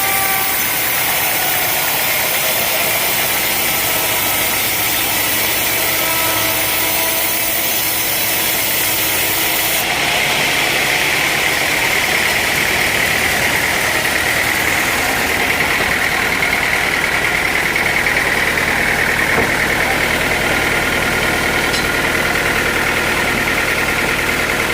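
Sawmill machinery running steadily, a motor's drone with a constant high whine over it; the sound changes character about ten seconds in.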